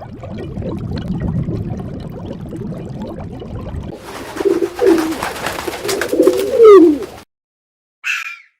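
Low rumbling noise for about four seconds, then a bird cooing in low, bending calls for about three seconds, loudest near the end. A short, higher burst follows after a brief silence.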